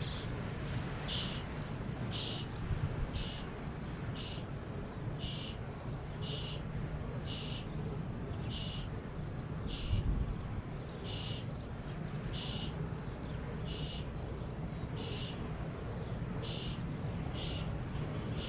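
Strong wind buffeting the microphone, a steady low rumble, with a short high chirp repeating evenly about once a second.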